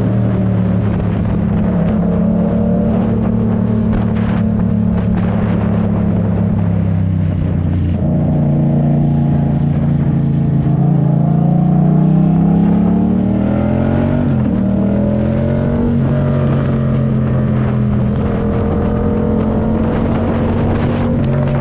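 Yamaha MT-07's parallel-twin engine under way: it holds steady revs, then rises in pitch through several seconds of acceleration, drops sharply at a gear change, and settles at steady revs again.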